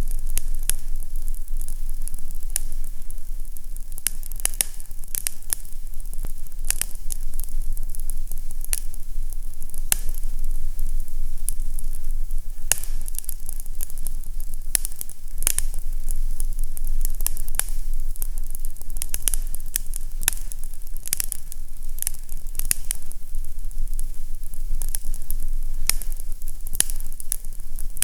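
Fireplace fire crackling: irregular sharp pops and crackles, several a second, over a steady low rumble.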